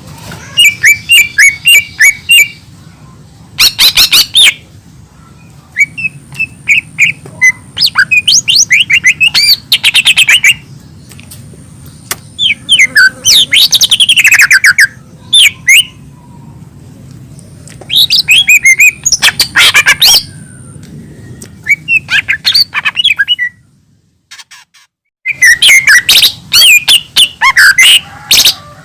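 Cucak ijo mini (a leafbird) singing loud, rapid chirps and trills in bursts of a second or two, with a short pause shortly before the last burst. A low steady hum runs underneath.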